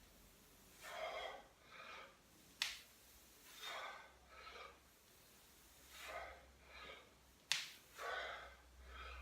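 A man breathing in and out in an even rhythm while doing bodyweight squats, one pair of breaths about every two and a half seconds. Two sharp clicks, about five seconds apart, are the loudest sounds.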